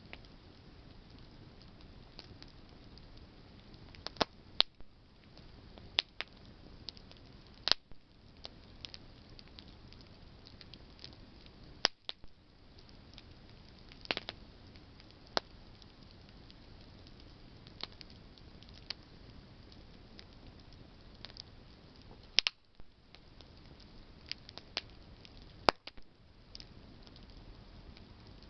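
Campfire of burning branches crackling, with sharp irregular pops and snaps a second or few apart over a steady low hiss.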